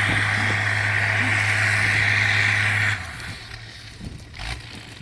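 Off-road trial truck's diesel engine running at steady revs, with a strong low hum and a hissing top. It drops away abruptly about three seconds in, leaving much quieter outdoor sound and one brief rustle near the end.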